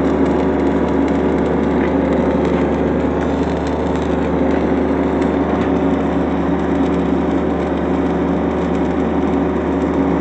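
Engine-driven welder running with a steady, even hum.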